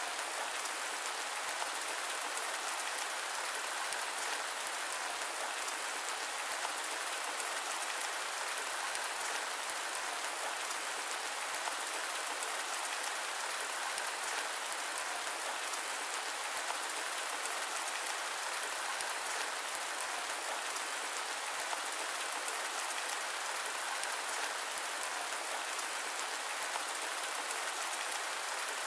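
Steady rain falling, an even hiss with fine pattering of drops, unchanging throughout and with no thunder or deep rumble.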